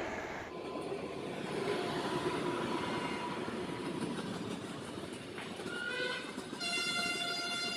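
Rumbling rail noise of an express train running through a station without stopping. Near the end a locomotive horn sounds: a short blast, then a long steady one.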